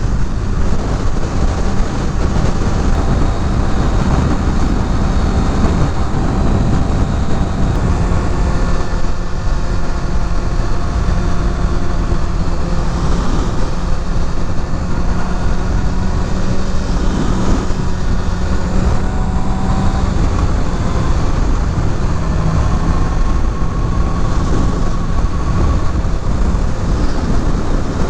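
Kawasaki Ninja ZX-6R's inline-four engine running at speed under loud wind rush on the microphone. The engine's pitch shifts a few times as the speed changes.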